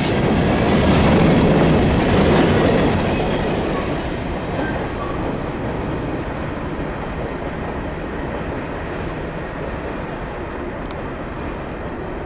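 A train rolling past on the rails, its wheels clattering over the track; the sound is loudest in the first few seconds, then dulls and fades as the train moves away.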